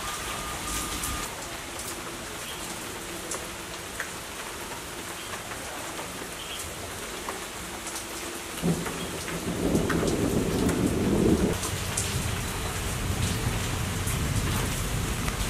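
Steady rain falling on garden foliage, with scattered drops ticking. About nine seconds in, a roll of thunder rumbles in, loudest for a few seconds, then eases to a lower rumble under the rain.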